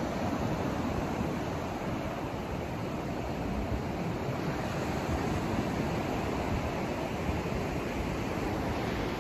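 Steady synthetic noise for sleep or masking: an even, unchanging rush, heavier and deeper in the low end than in the hiss at the top.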